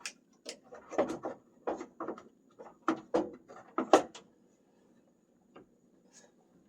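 Hand tools, screwdrivers, clacking and clinking in a quick, irregular string of knocks for about four seconds as they are handled, then a few faint clicks.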